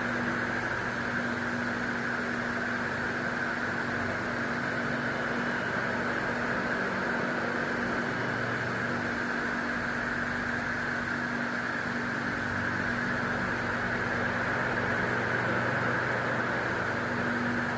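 Electric fan with 120-degree left-right oscillation running: a steady whoosh of air with a low, even motor hum.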